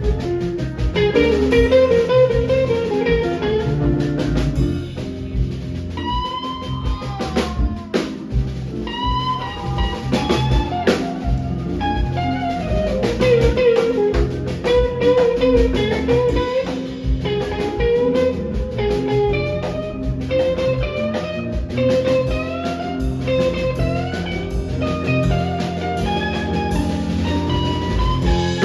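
Live rock band playing an instrumental jam: a lead guitar line with bent, sliding notes over bass, drums and keyboards.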